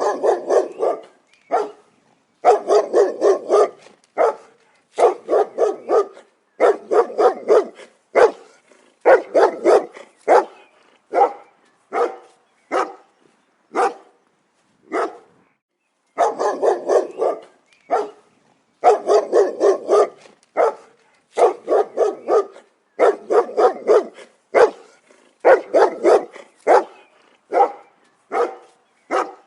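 Dog barking in repeated bursts: quick runs of several sharp barks, broken by short silent gaps and the odd single bark.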